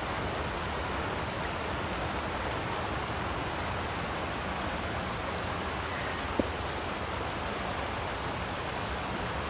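Steady rush of flowing water, with one short click about six and a half seconds in.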